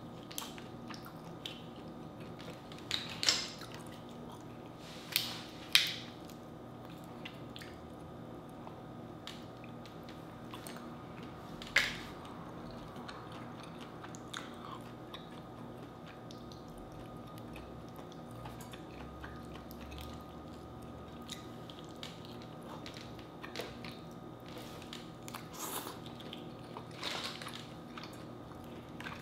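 Close-up eating sounds: chewing and biting, with a few sharp cracks and clicks as boiled crawfish shells are peeled apart by hand, the loudest in the first twelve seconds.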